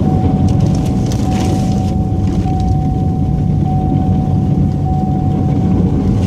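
Snow-plow vehicle's engine running steadily, heard from inside the cab while plowing, with a thin steady whine over it that stops near the end.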